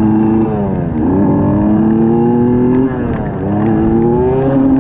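A motor vehicle's engine accelerating through the gears: its pitch climbs steadily, drops sharply at a gear change about half a second in and again about three seconds in, then climbs again.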